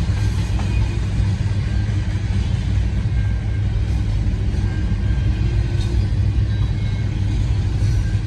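Intermodal freight train rolling slowly past: a steady low rumble of wheels on rail.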